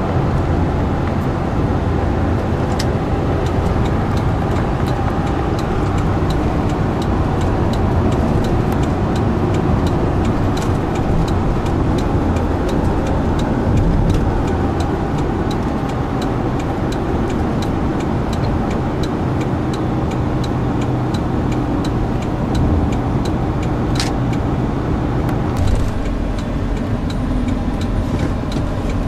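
Steady, loud rumble of a motor vehicle running, with faint, evenly spaced ticks throughout and a sharper click about three-quarters of the way through.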